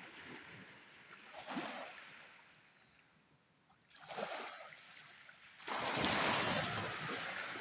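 Sea waves surging and breaking on the shore: a small wash about a second and a half in, another around four seconds, and the loudest near the end, which fades slowly.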